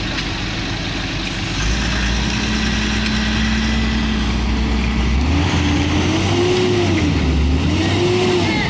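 Truck engine running steady and heavy for a few seconds, then revving up and down several times, its pitch rising and falling in swells.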